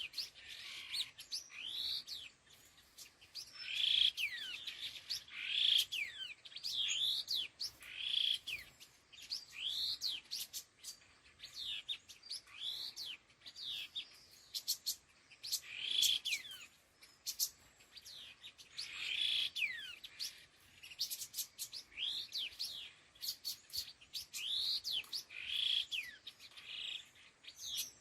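Chestnut-tailed minla (khướu lùn đuôi hung) calling over and over in short whistled phrases of quick sweeping notes, about one phrase every one to two seconds.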